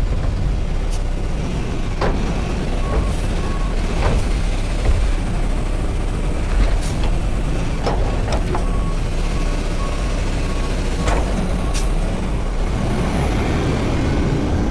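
Garbage truck engine running steadily, with a reversing alarm beeping in two spells and several sharp clanks.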